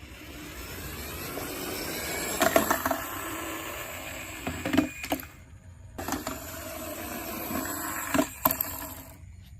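Toy car wheels or small motor whirring in two runs of about five and three seconds, each stopping suddenly, with clicks and knocks as the car rattles and bumps along.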